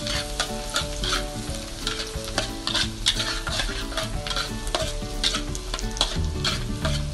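Minced garlic, ginger and onion sizzling in butter and oil in a wok, with a spatula scraping and stirring against the pan about three times a second.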